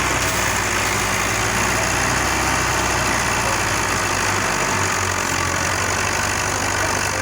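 Massey Ferguson Turbo tractor's diesel engine running steadily, with a dense hiss over the low drone.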